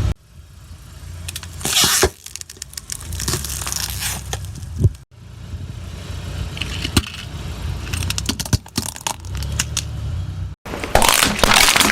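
A car tyre rolling slowly over objects and crushing them, with crackling, snapping and tearing over the low hum of the idling engine. The sound cuts off abruptly twice, and the loudest crunching comes near the end.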